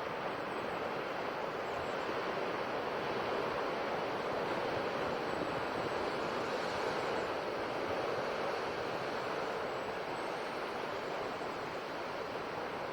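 Sea waves washing on a shore: a steady rush of surf that swells gently for a few seconds in the middle and eases slightly near the end.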